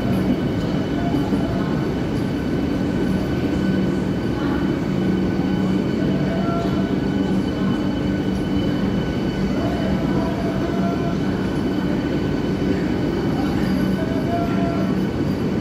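Vande Bharat Express electric trainset coaches rolling past along a station platform: a steady rumble of wheels on rail with a constant hum.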